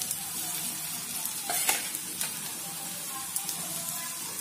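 Sabudana-and-potato dough strands deep-frying in hot oil in a kadhai: a steady sizzle with scattered crackles, one louder crackle about a second and a half in.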